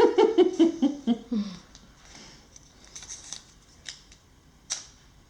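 A drawn-out vocal sound falling in pitch, then soft rustling and a few sharp clicks as a plastic hospital ID band is handled and fastened around a stuffed toy.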